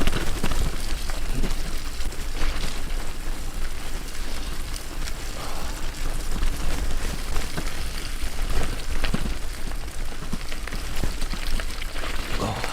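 Wind buffeting the microphone and tyre noise from a bicycle riding over a rough, muddy track, with a steady low rumble and occasional knocks and rattles.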